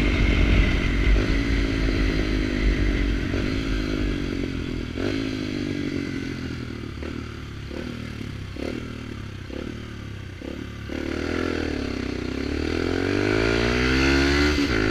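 Motorcycle with a loud sport exhaust, engine note falling off with a string of sharp pops from the pipe during the slowdown, then revving up again in a rising note over the last few seconds.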